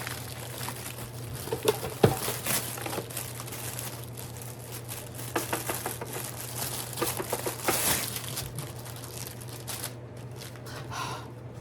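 Packaging being crinkled and torn open by hand, an irregular run of rustling and crackling that dies down about ten seconds in.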